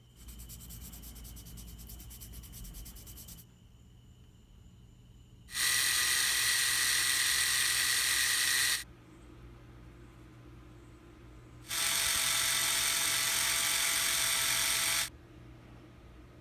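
A small powered device running in three bursts of about three seconds each. The first is a quieter fast buzz; the second and third are much louder.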